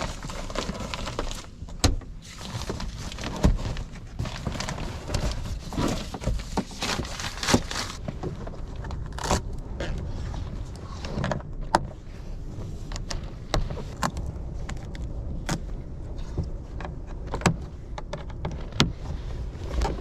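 Strong wind rumbling, with repeated sharp clicks and knocks scattered through it.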